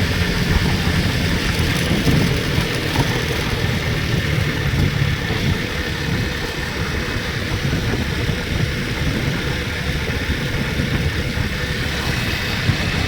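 Steady rumble and hiss of a moving vehicle, even throughout with no sudden events.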